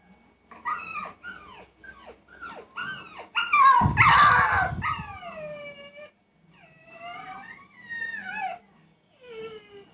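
A puppy whimpering and yelping in pain: a quick series of short, falling cries, a louder, harsher yelp about four seconds in, then longer drawn-out whines. These are the cries of an injured puppy.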